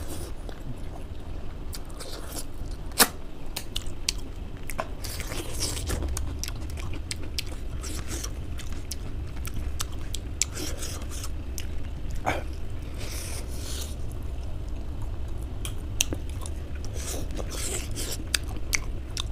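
A man eating rice and side dishes with his hand: chewing and biting, with frequent small crunches and sharp clicks, the sharpest about three seconds in.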